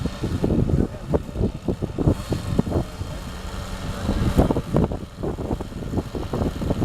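Wind buffeting the microphone in irregular gusts, with a faint steady hum for about a second in the middle.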